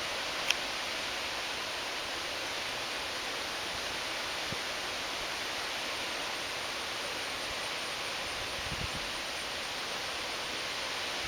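Steady hiss of wind blowing through grass and trees, with one short click about half a second in.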